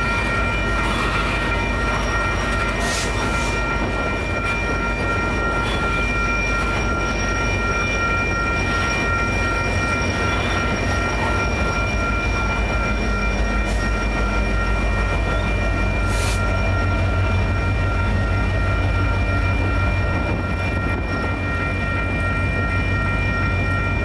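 Loaded tank cars of a freight train rolling over a grade crossing, their wheels giving a steady low rumble, while the crossing signal bells ring without a break. In the second half the train's rear pushing locomotive, an EMD SD70ACe diesel, goes by and adds a deeper engine drone.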